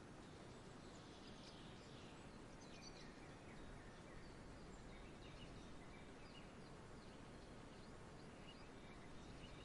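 Faint outdoor birdsong: many short chirps and twitters from small birds over a soft, steady background hiss.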